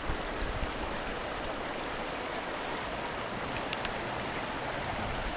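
Steady rush of shallow river water flowing over rocks.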